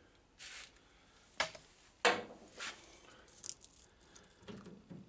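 Hard parts of a vending machine's rotor and drive motor assembly being handled during disassembly: a sharp click about one and a half seconds in and a louder clunk about two seconds in, with lighter knocks and rustling between them.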